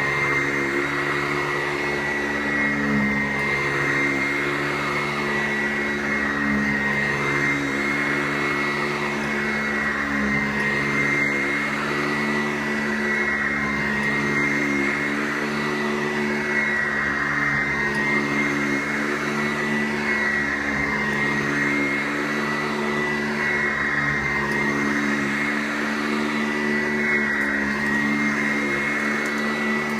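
Sanitaire vacuum cleaner running on carpet with a steady high whine and low hum, its rushing sound swelling and falling about every two seconds with each push and pull.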